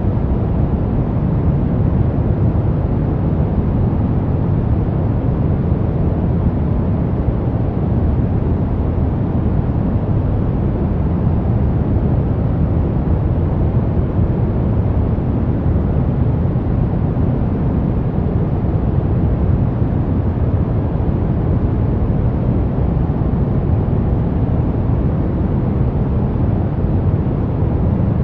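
Brown noise: a steady, unbroken deep rushing hiss, strongest in the low end and falling off toward the highs.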